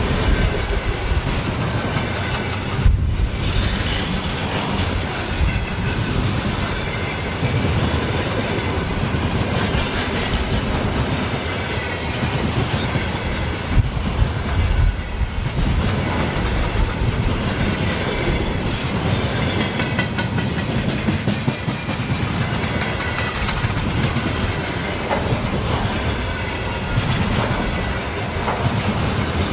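Freight train wagons rolling past at speed, their wheels clattering over the rail joints with a steady clickety-clack, and a faint squeal of wheels.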